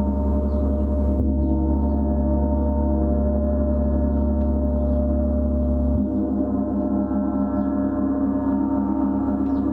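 A gong played in a sustained, steady wash of overlapping ringing tones over a deep low drone. The low drone shifts abruptly about a second in and again around six seconds in.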